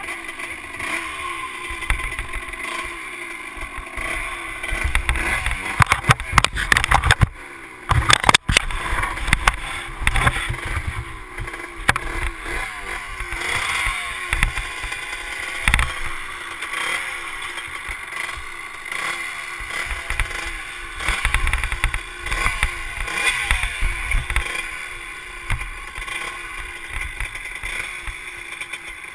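Motocross bike engine revving up and down, its pitch rising and falling over and over, with rumble from wind on the microphone. A burst of loud knocks comes about seven seconds in.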